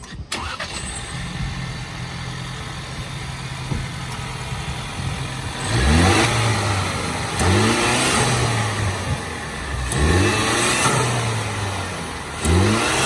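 Ford Bronco's 2.3-litre turbocharged four-cylinder engine, fitted with an S&B cold air intake, idling steadily, then revved four times in short blips, each climbing and falling back to idle.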